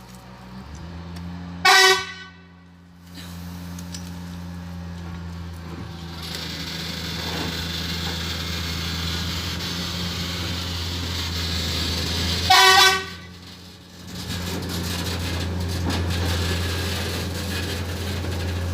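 Railway diesel engine running steadily, getting louder about six seconds in, with two short horn toots about eleven seconds apart.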